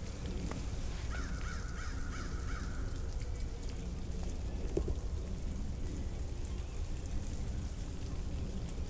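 Outdoor ambience: a steady low rumble with faint scattered ticks, and a bird calling in a wavering tone for about two seconds, starting about a second in.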